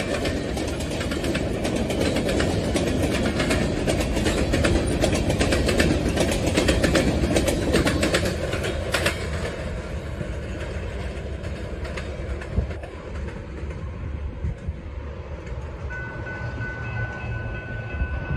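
Freight train of covered hopper cars rolling past at close range: steel wheels rumbling and clattering over the rail joints, easing off about halfway through as the last car goes by. A faint steady high tone comes in near the end.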